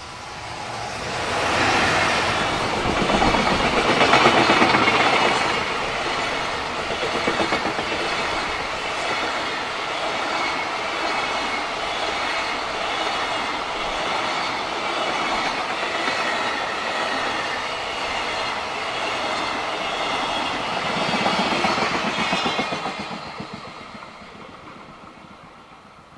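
JR Freight EF210 electric locomotive and its long container freight train passing: the locomotive's approach swells in the first few seconds, then a steady run of wheels clattering over the rail joints as the wagons go by, louder again as the last wagons pass near the end, then fading away.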